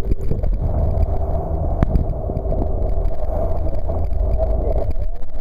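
Jet boat running with a steady, loud drone and wind buffeting the microphone; a single sharp click about two seconds in.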